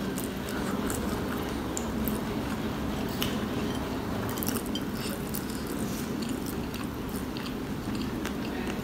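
Close-up chewing of onion pakoras (fried onion fritters), with many small crackling clicks through it over a steady low background noise.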